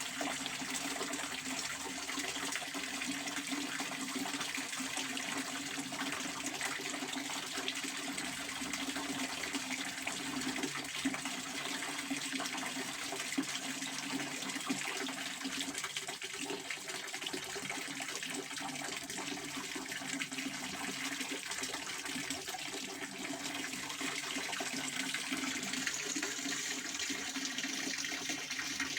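Pond water fountain splashing: a steady, unbroken rush of falling water.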